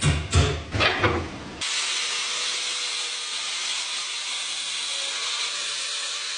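Rhythmic thuds, about three a second, for the first second and a half. They give way abruptly to a steady, even hiss that holds level.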